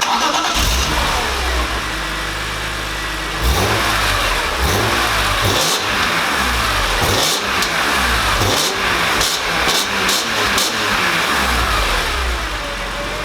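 BMW E46 M3's S54 straight-six engine running and being revved, its pitch rising and falling again and again. It gets louder about three and a half seconds in.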